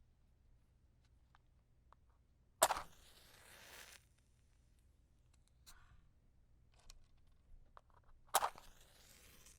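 Wooden matches struck twice, about six seconds apart: each strike is a sharp scrape that flares into about a second of hissing as the head catches. Faint small clicks and taps come in between.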